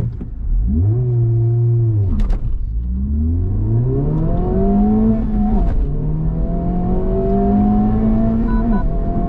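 Honda Civic Type R's turbocharged 2.0-litre four-cylinder accelerating hard from a standstill through the manual gears on a 0–100 km/h run. The engine note climbs and drops at gear changes about two, six and nine seconds in. A short shift-warning beep sounds just before the last change.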